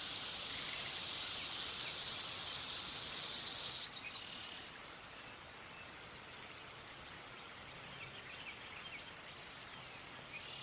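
Black rat snake hissing as a defensive warning: one long, loud hiss that cuts off suddenly about four seconds in. Faint bird chirps follow.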